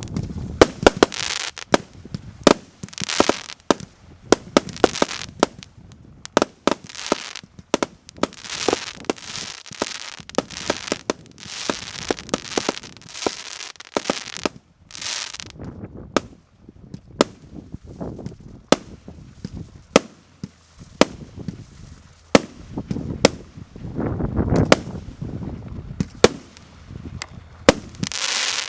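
Goblin JFC2 multi-shot fireworks battery (cake) firing: a long run of sharp reports, about one to two a second, with rushing noise from the bursting shells between them.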